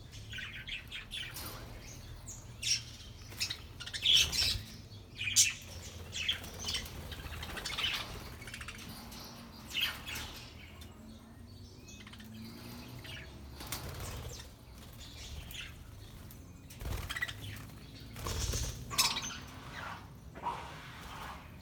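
A flock of budgerigars chirping and chattering in short, irregular calls, with wings flapping now and then.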